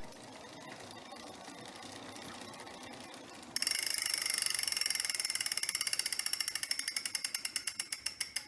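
Freehub ratchet on an Elite Drivo direct-drive trainer clicking as the flywheel coasts after pedalling stops: rapid clicks begin about three and a half seconds in and slow steadily as it spins down. Before that there is only a faint, quiet running sound.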